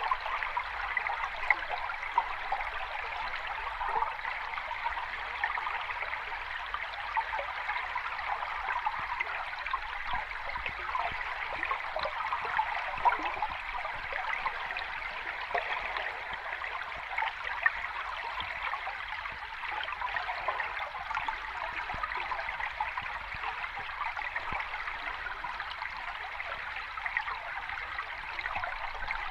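Sea water washing steadily at the shore: a continuous fizzing hiss of many small splashes and bubbles, even in loudness with no distinct wave breaks.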